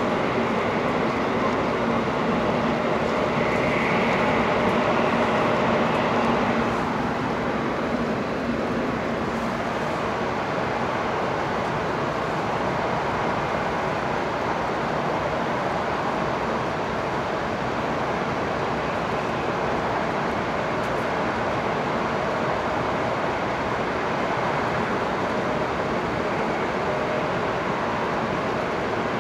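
Steady running noise of a Hokuriku Shinkansen heard inside the passenger car: the even rumble and rush of the moving train, with a faint low hum. It is a little louder for the first seven seconds, then settles slightly quieter.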